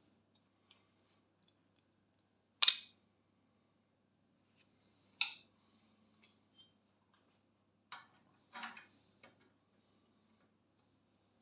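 Homemade spot welder built from a microwave oven transformer firing welds: two loud sharp snaps a few seconds apart, then a quieter snap and a short sizzling crackle, over a faint steady hum.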